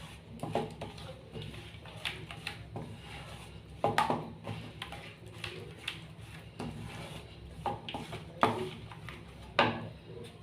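Occasional light clinks and knocks of dishes and utensils being handled, a few louder ones about four seconds in and near the end, over a steady low hum.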